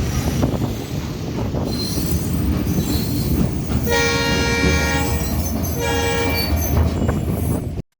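A train running past with a steady rumble of wheels on the rails. An electric locomotive's horn sounds twice: a blast of about a second and a half some four seconds in, then a shorter one shortly after.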